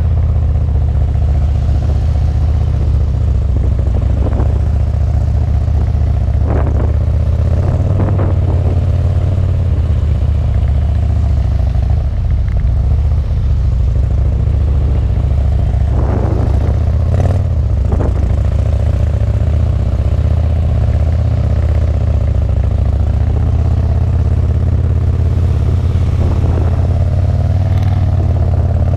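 Harley-Davidson touring motorcycle V-twin engines running steadily at low speed, with small rises and falls in pitch from gentle throttle changes. A few short rattles come through, about four seconds in, around seven to eight seconds, and again at sixteen to eighteen seconds.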